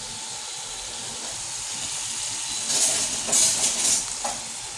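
Sliced potatoes and red onions sizzling in oil in a frying pan, a steady hiss that swells louder about three seconds in.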